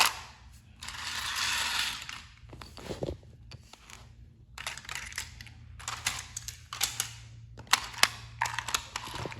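Clicks and rattles of plastic toy train engines being handled, with a scraping slide about a second in and bunches of clicks in the second half.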